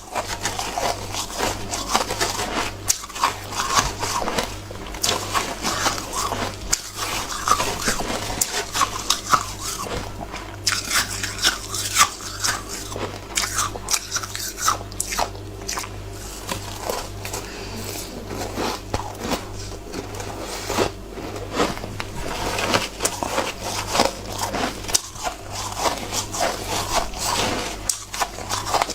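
Frozen ice being bitten and chewed in big mouthfuls: a dense, irregular run of hard crunches.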